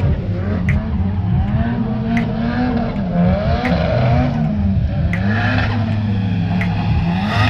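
A drift car's engine revving up and down over and over as the car slides, with a wavering tyre-like whine above it. A sharp tick repeats about every second and a half.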